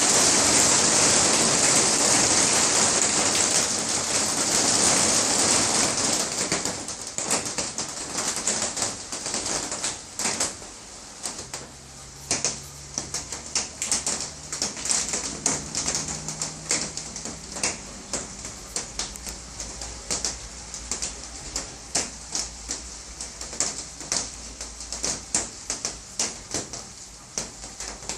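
Rain: a heavy, even hiss for the first several seconds, which then eases off into irregular drops tapping and dripping on a surface.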